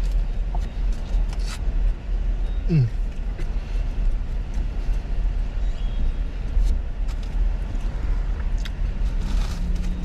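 Steady low rumble of a vehicle, with a few light clicks and a short falling whine about three seconds in.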